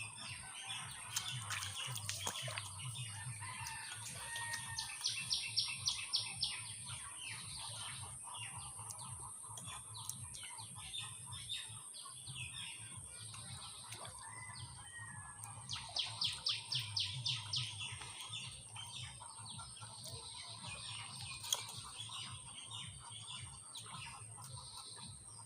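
Birds chirping and calling, with two bursts of a rapid series of sharp, high calls about ten seconds apart.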